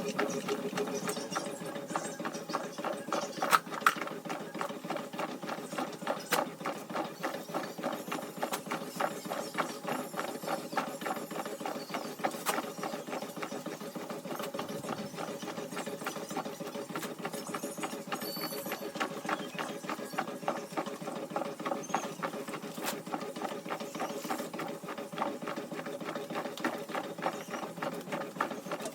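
Washing machine running with a fast, rhythmic squeaking.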